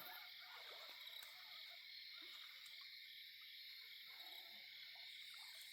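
Faint, steady chorus of night insects, an unbroken high trilling, with a few faint scattered rustles underneath.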